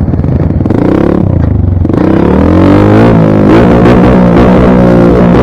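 Dirt bike engine running hard, its pitch dipping about two seconds in and then climbing and wavering as the throttle is worked.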